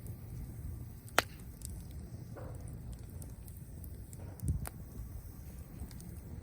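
Bonfire of dry branches and leaves burning with a steady low rumble and scattered crackles, one sharp pop about a second in and a duller thump past the middle.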